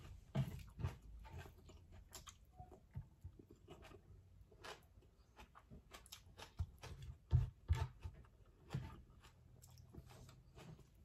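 Close-up eating sounds: chewing with many short, wet mouth smacks and clicks. The loudest smacks come about half a second in and again around seven to nine seconds in.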